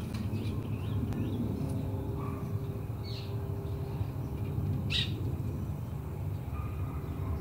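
Birds calling in a park: a few short high chirps, the sharpest about five seconds in, over a low steady rumble.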